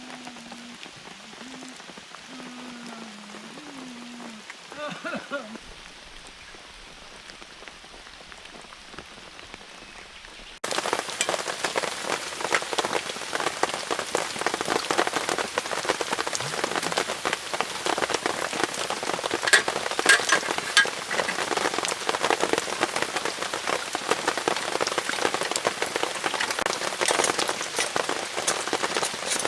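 Rain falling on a tent-Mark DESIGNS 炎幕 polycotton tent, a dense patter of drops on the fabric. It comes in suddenly much louder about ten seconds in; before that the rain is softer, with a faint wavering low tone under it.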